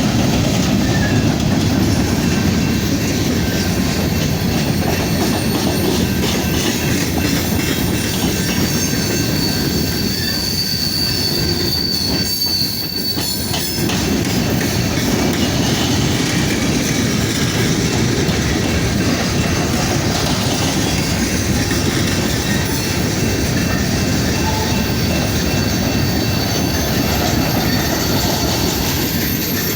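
Freight train cars rolling past, steel wheels rumbling on the rails with a high, thin wheel squeal that is loudest about halfway through. A run of rapid clicks over the rail joints comes at the same point.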